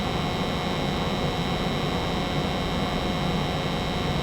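90% American Standard gas furnace running, burners firing with the circulating blower on, a steady hum and rush of air with a few constant tones.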